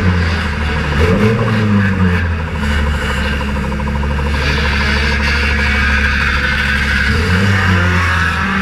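Banger racing car's engine heard from inside its stripped cabin, revving up and down over the first couple of seconds, then held at a steady pitch for several seconds before the revs change again near the end.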